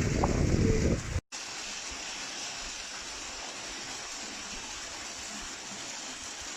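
Wind buffeting the microphone for about a second. Then, after a brief cut, a steady rush of flowing water.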